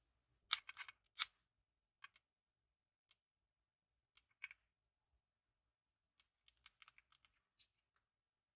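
Vintage journal paper being handled: short, crisp crinkles and clicks in a few scattered clusters, with near silence between them.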